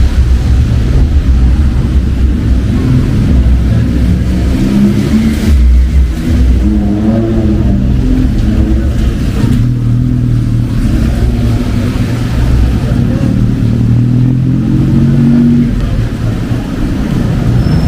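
Street traffic: vehicle engines running and pulling past with a low rumble, with people's voices in the mix.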